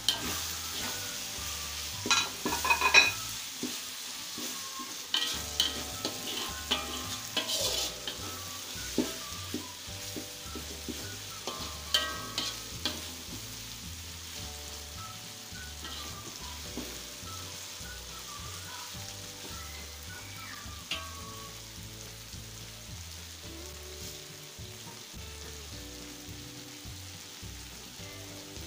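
Ground chili spice paste with added leaves and lemongrass sizzling in hot oil in a wok while a metal spatula stirs it, clinking and scraping against the pan through about the first half. After that it settles into a steady sizzle. This is the spice paste being fried before the meat goes in for rendang.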